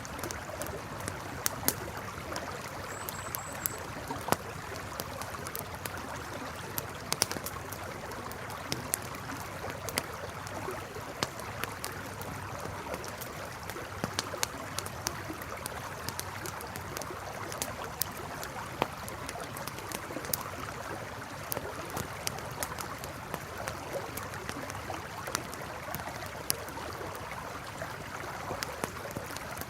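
River flowing steadily, with a campfire crackling over it in frequent, irregular sharp pops and snaps.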